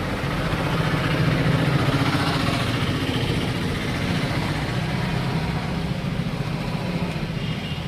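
A motor vehicle engine running steadily, with traffic noise around it, swelling slightly about two seconds in.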